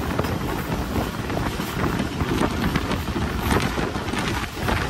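Passenger train running at speed, heard from on board: a steady rumble of wheels on the rails with irregular clatter, and wind rushing over the microphone.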